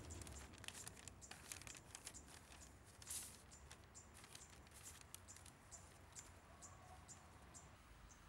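Faint park ambience: a small bird chirping over and over, short high chirps about two a second. Paper rustles as sheets are handled, loudest about three seconds in.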